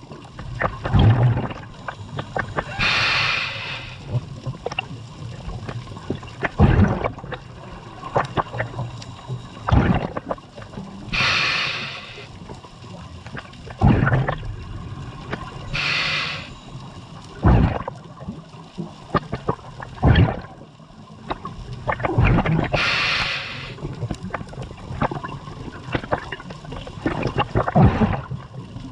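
Scuba diver breathing through a regulator underwater: a hiss with each inhalation every five to seven seconds, and bubbling and gurgling of exhaled air between breaths.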